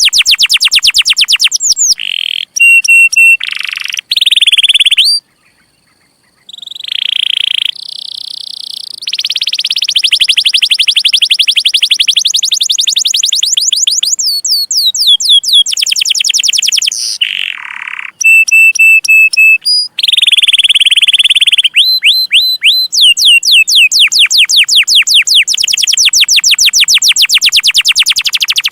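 Domestic canary singing: long runs of fast, repeated sweeping chirps ('cuit cuit') broken up by short held whistles and trills, with a brief pause about five seconds in.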